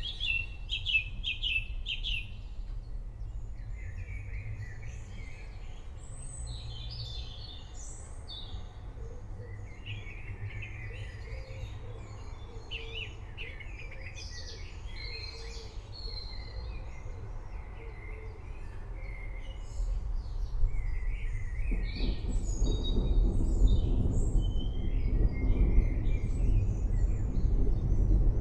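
Birds chirping and trilling over a low, steady rumble. About two-thirds of the way through, a deeper rumble of rolling thunder swells and grows louder, continuing to the end.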